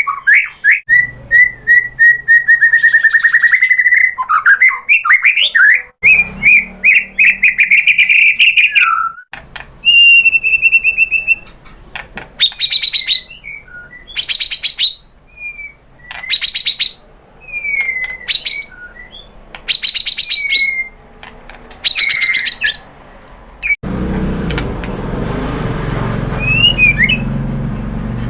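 White-rumped shama (murai batu) singing a loud, varied song of clear whistled notes and fast chattering trills. Near the end the song breaks off, leaving a steady background hum with a few faint calls.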